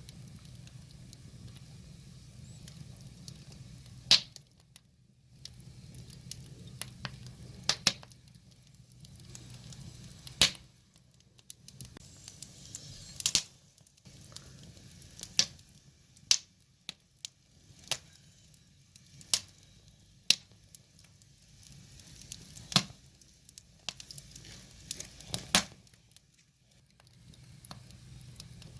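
Wood fire crackling, with sharp irregular pops every second or two over a low steady background of the burning logs.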